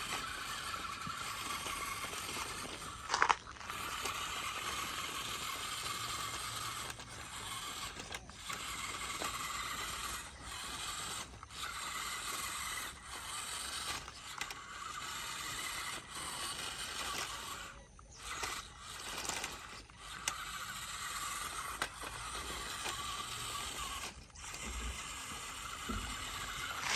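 Remote-control toy tractor's small electric motor and plastic gearbox whirring as it runs, stopping and restarting several times, with one sharp clack about three seconds in.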